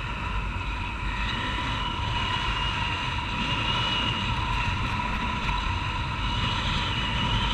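Honda CG Titan 150 single-cylinder four-stroke motorcycle engine running steadily while riding, with low wind rumble on a helmet-mounted camera.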